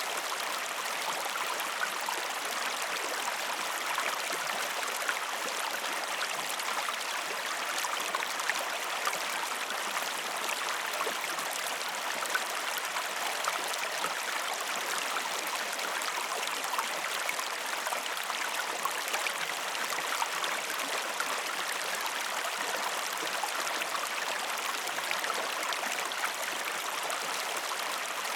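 Steady rushing of a flowing stream, an even, unbroken water noise with fine splashy flecks throughout.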